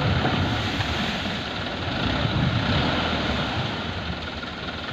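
Dump truck engine running: a loud, steady rushing rumble that eases off a little toward the end.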